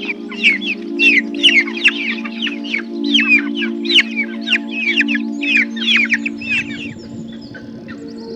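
Baby fowl peeping: a rapid run of short, high calls, each falling in pitch, several a second, that stops about seven seconds in. Steady background music chords run underneath.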